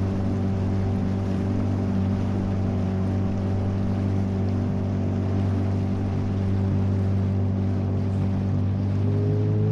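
Motorboat engine running steadily at cruising speed, with its pitch starting to rise near the end as the throttle opens.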